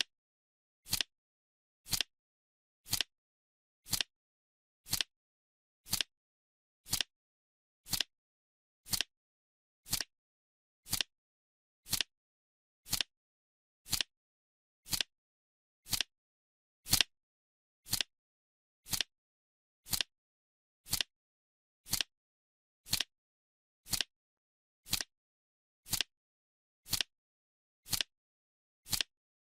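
Clock-tick sound effect ticking once a second, each tick a short sharp click with silence between.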